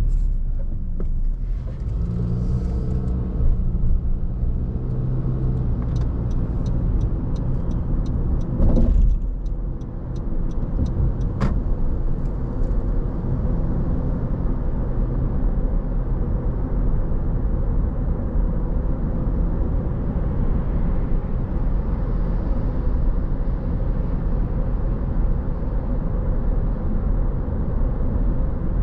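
A car driving on city roads, with a steady low rumble of engine and tyre noise. About six seconds in there is a short run of quick, even ticks, followed by a louder thump and, a couple of seconds later, a single sharp click.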